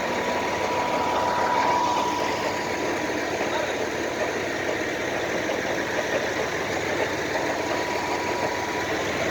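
An engine running steadily at an even speed, with a thin steady whine above it.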